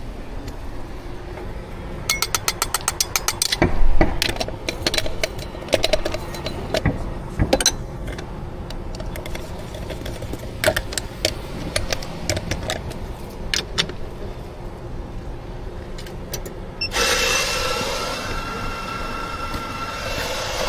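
Barista work at a coffee machine. A quick run of evenly spaced clicks is followed by scattered knocks and clatter, and then, near the end, a steady hiss with a thin whistling tone comes in.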